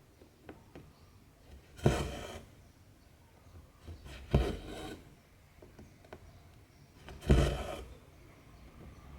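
Needle and cotton floss pulled through 14-count cross-stitch fabric: three pulls about two and a half to three seconds apart, each starting with a sharp pop and trailing off within about half a second. A couple of faint ticks come near the start.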